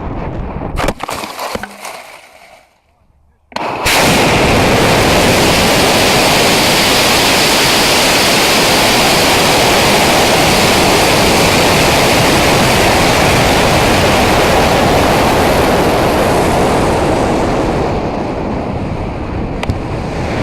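Loud, steady rushing of wind over an onboard camera's microphone, starting abruptly a few seconds in and easing a little near the end.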